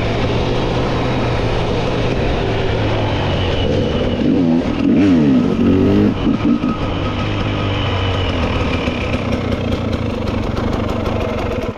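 Dirt bike engine running, its revs rising and falling quickly a few times in the middle.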